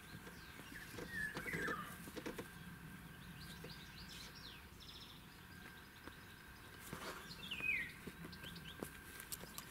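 Small birds chirping faintly: short downward-sliding chirps about a second in and again near eight seconds, with a few softer chirps between. Light rustles and clicks run underneath.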